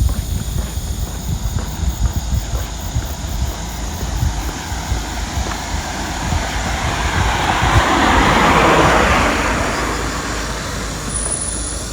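A vehicle passing by, its noise swelling to a peak about eight to nine seconds in and then fading, over the steady low thud of footsteps on the walk.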